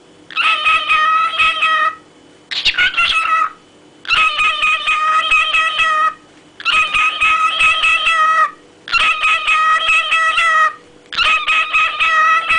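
Cockatiel calling in a series of about six long, wavering notes with short pauses between them; one shorter call about two and a half seconds in falls in pitch.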